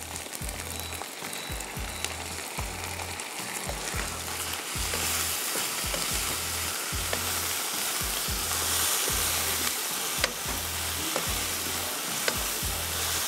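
Minced meat sizzling in a wok with freshly added spices and yogurt, stirred with a wooden spoon that taps and scrapes the pan now and then. The sizzle grows louder about five seconds in.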